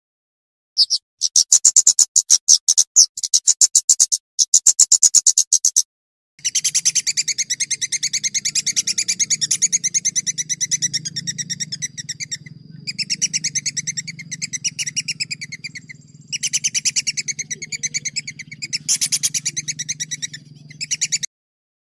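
Recorded songbird song used as masteran for training competition birds: long, fast rattling trills of high repeated notes, first in short runs with brief gaps, then from about six seconds an unbroken roll with a steady low hum beneath it. It cuts off abruptly shortly before the end.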